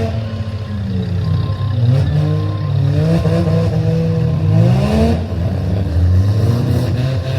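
Demolition derby cars' engines revving, their pitch rising and falling again and again as the throttles are worked.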